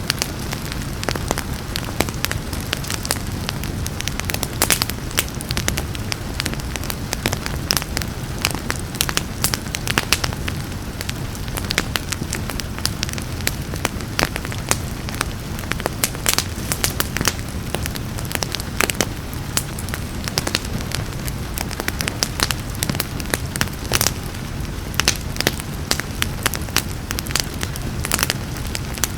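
Wood fire crackling, with frequent irregular sharp pops over a steady low rumble, mixed with the hiss of rain.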